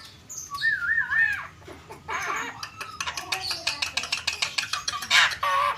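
Javan myna (jalak kebo) singing in full voice: a wavering whistle about half a second in, then a fast run of clicking, chattering notes, and a harsh rasping call near the end.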